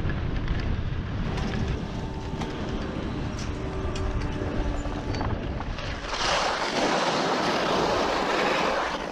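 Skiing through snow with wind buffeting the microphone, then from about six seconds in a louder, steady hiss of skis sliding and scraping over the snow.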